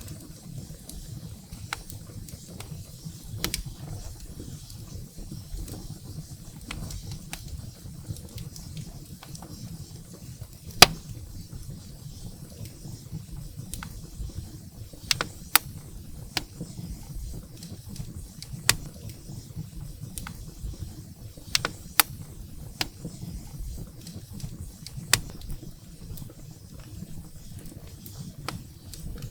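Wood fire burning in a fireplace, crackling with irregular sharp pops over a low steady rumble of flames; the loudest pop comes about eleven seconds in.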